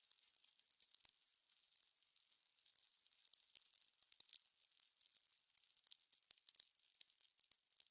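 Fire crackling: a soft hiss under many small, irregular pops and snaps, a few sharper ones about four seconds in and near seven seconds.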